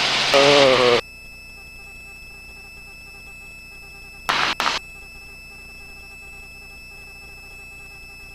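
The end of a voice over a helicopter intercom cuts off about a second in, leaving the quiet line: a faint, steady electrical whine made of several thin, constant high tones. A short half-second burst comes about four seconds in.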